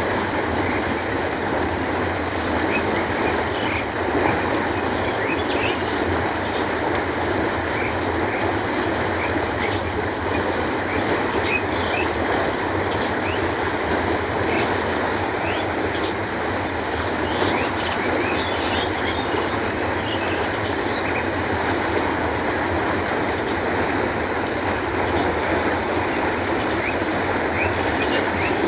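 Canal water flowing, a steady continuous rush, with faint short high chirps scattered through it.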